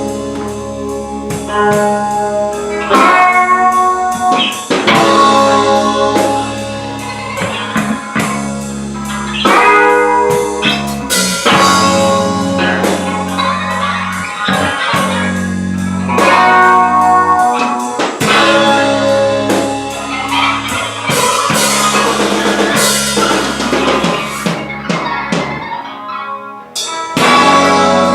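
A band playing live: guitar over a drum kit in a rock song, with a brief drop-out near the end before the full band comes back in.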